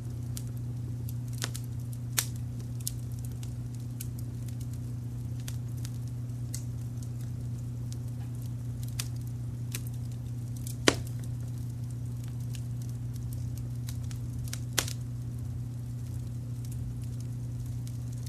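Wood fire crackling, with scattered sharp pops and snaps (the loudest about eleven seconds in), over a steady low rumble of brown noise.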